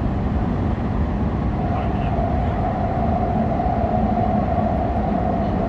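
Subway train running at speed through a tunnel: a dense, steady rumble of wheels and running gear, with the traction motors' steady whine growing stronger about a second and a half in.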